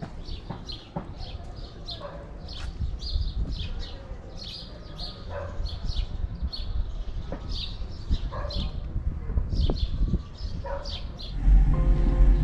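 Small birds chirping over and over in quick, high calls, over a low rumble of wind on the microphone. Background music comes in near the end.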